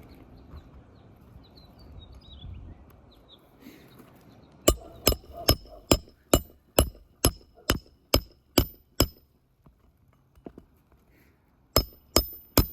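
Hammer driving roofing nails into a new asphalt 3-tab shingle: a run of about ten sharp strikes at roughly two a second starting about five seconds in, then a short pause and three quicker strikes near the end.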